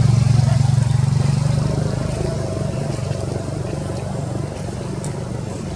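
A motor engine running with a low hum, loudest at the start and fading over the next few seconds.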